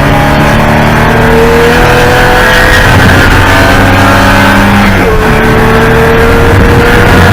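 Porsche 944 Spec race car's four-cylinder engine pulling hard under acceleration, its pitch climbing slowly. The pitch breaks about five seconds in, like a gear change, then climbs again.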